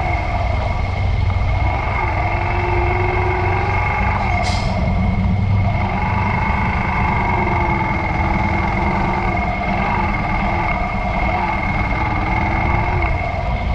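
Yamaha YBR125 motorcycle's single-cylinder four-stroke engine running under way, its pitch rising and falling with the throttle, over a steady high whine. A single short click sounds a few seconds in.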